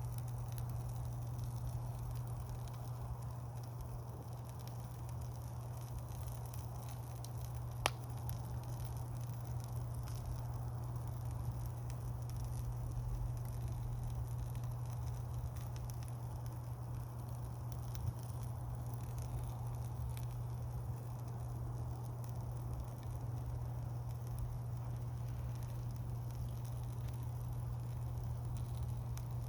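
Wood campfire burning steadily with light crackling over a steady low rumble, and a sharp pop from the burning wood about eight seconds in, with a smaller one later.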